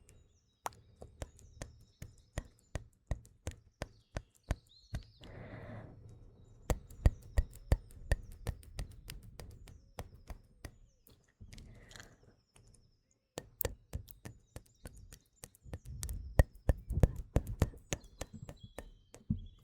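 Close-miked ASMR mouth sounds: rapid wet clicks and smacks, broken by a few breaths. Faint morning birdsong chirps underneath.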